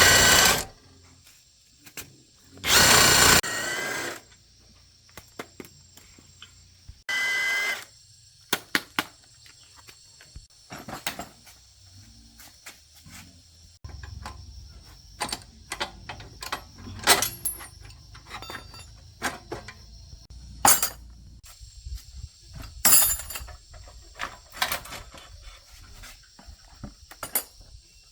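Three short bursts of a handheld power tool in the first eight seconds, the longest about a second, with a pitched whine, followed by scattered clicks and taps during motorbike repair work.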